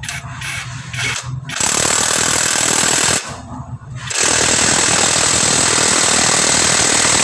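Power tool running in two long bursts with a fast, dense rattling hammer, the second burst starting about four seconds in and running on.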